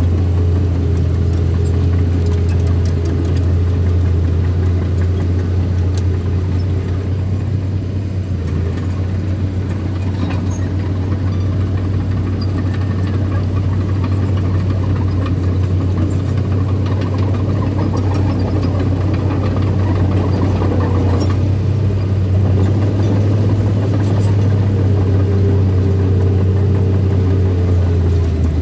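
An engine running steadily with a deep, unbroken drone, as of an earthmoving machine at work; its pitch wavers slightly near the end.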